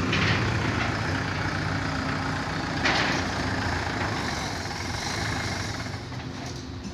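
Swaraj 843 XM tractor's diesel engine running steadily, with a short burst of noise about three seconds in and the sound slowly growing fainter toward the end.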